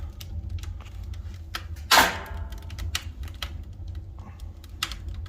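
Wood fire crackling in a stove-fireplace's firebox: irregular sharp pops and snaps, with one loud crack about two seconds in, over a low steady rumble. The upper air supply is open and the secondary burn is running.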